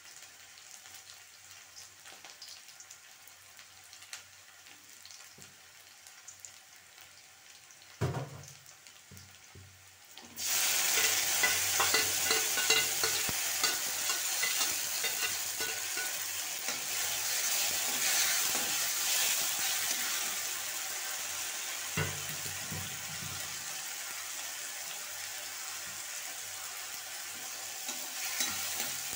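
Chopped onion and garlic sizzling gently in oil in a metal kadai; about ten seconds in, tomato purée is poured into the hot oil and the sizzle suddenly turns loud. It keeps frying loudly while stirred with a metal ladle, with a couple of knocks of the ladle against the pan.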